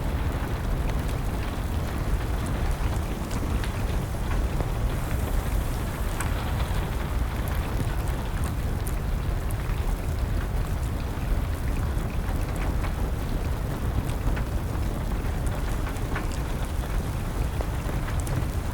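Steady rain with the scattered pops and crackles of a burning wood fire.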